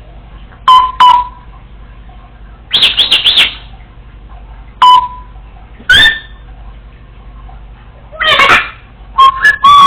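Congo African grey parrot whistling and giving short, clipped calls in about seven separate bursts: single sharp whistles, and a few quick runs of rapid notes.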